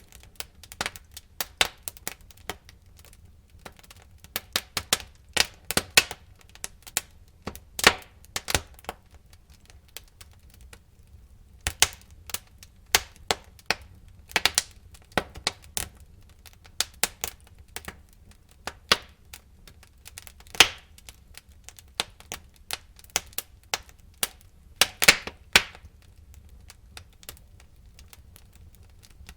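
Wood fire in a fireplace crackling, with irregular sharp pops and snaps at uneven intervals over a faint low rumble of flame, and a short lull in the middle.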